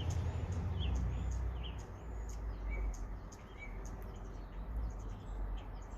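Small birds chirping: a scatter of short, high chirps over a steady low rumble.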